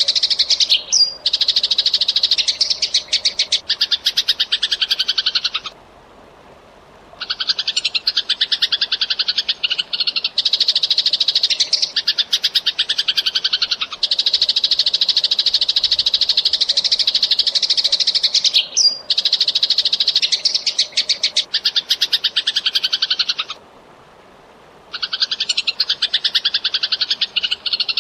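Eurasian tree sparrows chirping in a fast, dense stream of calls, in long bouts broken twice by pauses of about a second and a half.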